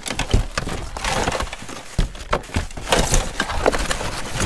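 Hard objects clattering and knocking together in quick, irregular succession as a pile of discarded electronics is rummaged through by hand.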